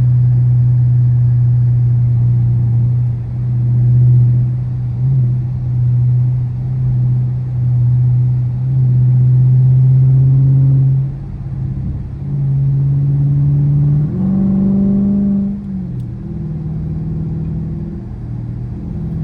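Car engine and exhaust droning steadily, heard from inside the cabin while driving. About fourteen seconds in, the engine revs up briefly, then drops back.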